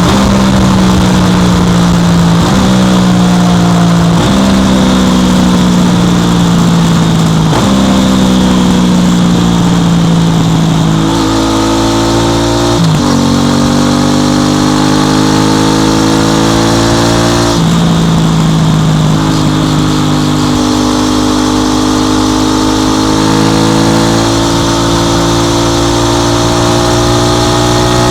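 Aprilia RS660 Extrema's parallel-twin engine and exhaust on the move. Revs sink in several stretches with a jump back up between each, like downshifts while slowing, then climb again through two gear changes, under a steady rush of wind.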